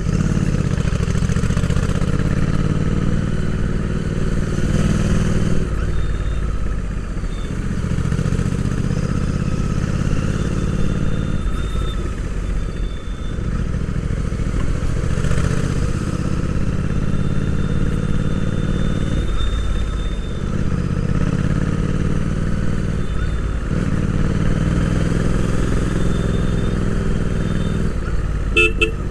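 Royal Enfield Interceptor 650's parallel-twin engine running under way, recorded on board the motorcycle. The engine note dips briefly and picks up again several times.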